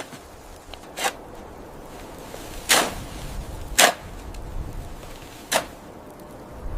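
Four sharp knocks, spaced unevenly a second or two apart, over a low rumble.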